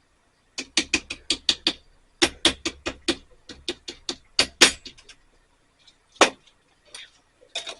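Rapid light tapping, about five taps a second in runs with short gaps, then a single louder tap and a few more near the end: ground coffee being tapped out of a container into an Aeropress chamber.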